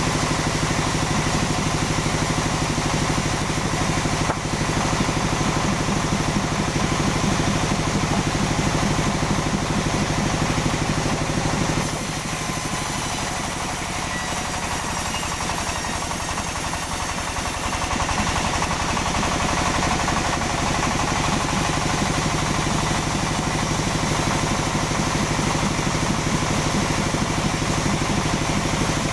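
Sawmill machinery engine running steadily. For about six seconds near the middle, its low hum thins and a high whine comes in, then the steady running returns.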